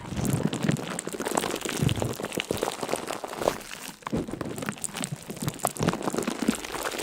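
A continuous patter of many small crackles and clicks, without a break.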